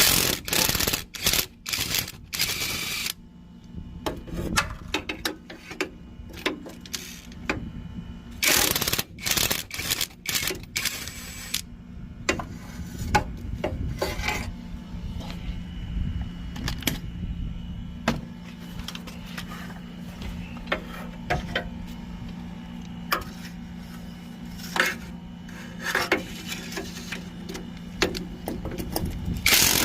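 A power tool running in short rapid-fire bursts, with metal clicks and clanks between them, over a steady low hum. It is typical of bolts being run off during exhaust removal. The longest bursts come at the start and again about nine seconds in.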